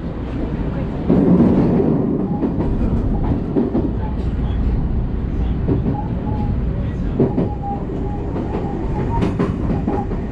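JR West electric train running on the Kyoto Line, heard from inside the car: a steady rumble with irregular clicks and clacks of the wheels over rail joints and points.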